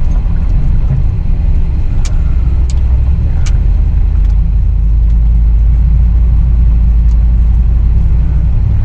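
Off-road truck engine running steadily while driving on a snowy trail, mostly deep low-pitched sound. Three short sharp clicks or knocks come about two to three and a half seconds in.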